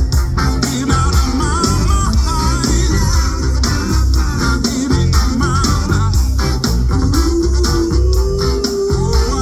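Live band music with a heavy bass and drum beat and wavering electric guitar lines on top; about seven seconds in a single long note slides up and is held.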